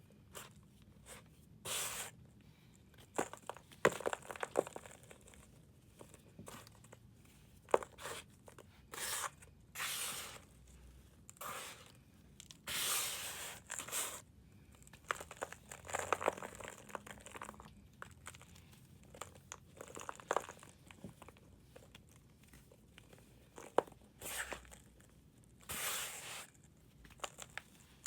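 Pressed powder blocks being crumbled and shaved by hand: a run of irregular soft crunches and short scraping swishes, with sharp little cracks and snaps in between.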